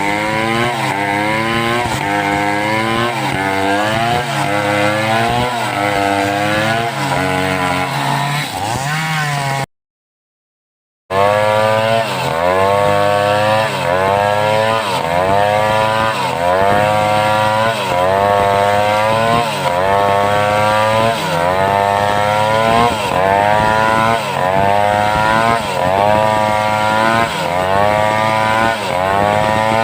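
Home-built two-stroke chainsaw running at full throttle while ripping a log lengthwise. Its pitch dips and recovers again and again as the chain bogs in the cut and clears. The sound drops out completely for about a second near the middle.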